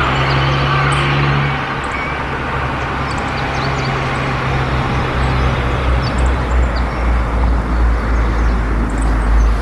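Steady road traffic noise from passing vehicles, with a low rumble that grows stronger about halfway through. Faint short high chirps sit above it.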